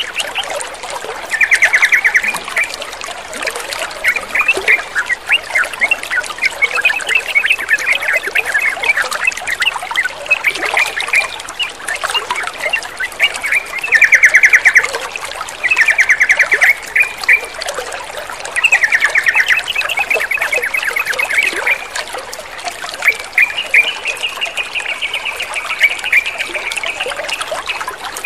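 Yellow-vented bulbuls (trucukan) chattering and calling over a steady trickle of running water. Several loud bursts of rapid, stuttering notes, each about a second long, stand out against the lighter chirping.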